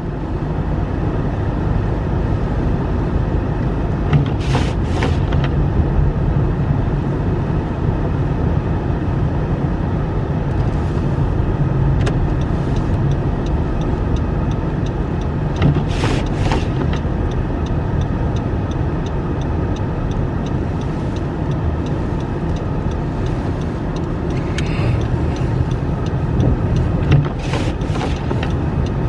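Steady car road and engine noise heard from inside the cabin while driving slowly on a snowy road, with a short double swish about every eleven seconds.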